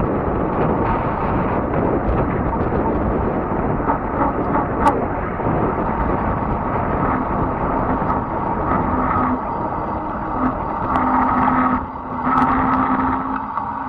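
Fat-tire electric bike being ridden: wind rushing over the microphone with tyre and drivetrain noise, and a faint steady whine running under it.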